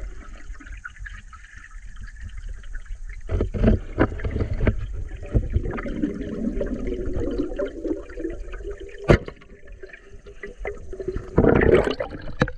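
Water sound heard through a diving camera underwater: low rumble and bubbling, with a scatter of clicks and knocks, one sharp click about nine seconds in, and a louder rush of bubbling near the end.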